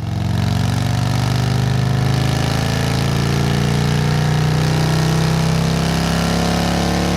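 Motorcycle engine idling steadily. It fades in at the start and holds an even, unchanging pitch with no revs.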